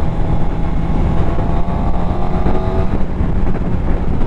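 Suzuki GSX-R750 inline-four engine running steadily while riding, over a constant rush of wind noise. The engine note fades back about three seconds in, leaving mostly wind.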